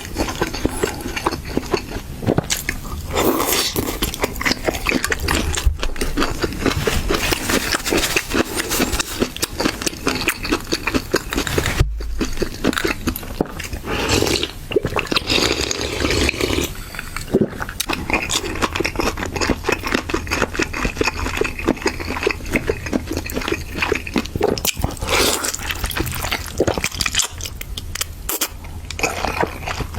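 Close-up wet chewing, sucking and smacking of someone eating braised chicken feet: a dense run of small sticky clicks and squelches.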